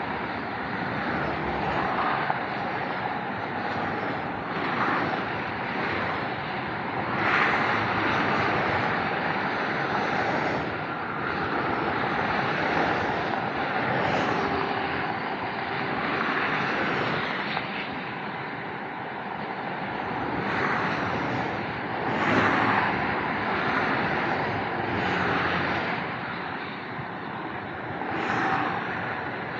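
Steady Autobahn traffic: cars and trucks passing at speed in a continuous rush of tyre and engine noise, single vehicles swelling and fading every few seconds.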